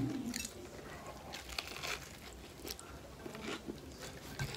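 A big bite into a crispy fried chicken sandwich, then chewing, with scattered short crunches of the breaded coating.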